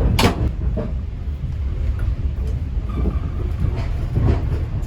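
Steady low rumble of a moving passenger train heard from inside the carriage, with a sharp knock at the start and a few faint ticks.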